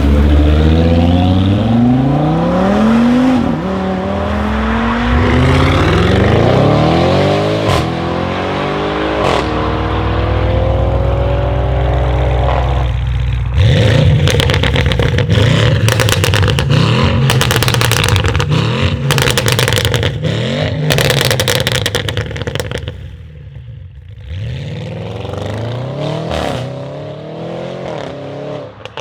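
Audi RS6 C8's tuned twin-turbo 4.0 V8, breathing through a Capristo exhaust with Milltek downpipes and no particulate filter, accelerating hard, its pitch climbing and dropping back at each upshift. About halfway through it lifts off into a long run of rapid crackles and pops from the exhaust, then picks up again near the end.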